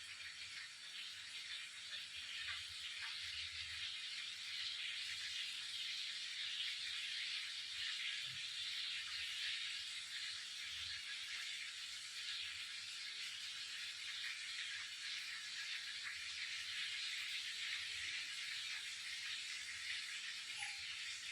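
Beef seekh kebabs sizzling steadily as they shallow-fry in hot oil, with faint scattered crackles.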